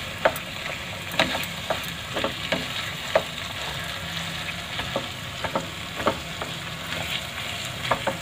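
Grated carrots frying in ghee in a nonstick kadhai, sizzling steadily as they are roasted, while a plastic spoon stirs them with irregular light knocks and scrapes against the pan.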